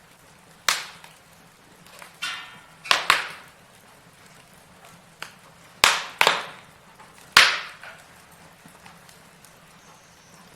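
Log fire crackling: a series of sharp pops and snaps from burning wood, each dying away quickly over a faint steady background. The loudest pops come in a cluster about two-thirds of the way through.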